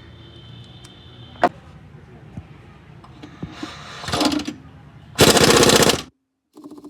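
Pneumatic impact wrench hammering: a shorter burst about four seconds in, then a loud burst of rapid strikes lasting just under a second that stops abruptly, most likely at the crankshaft pulley bolt. A faint steady hum and a sharp click come before it.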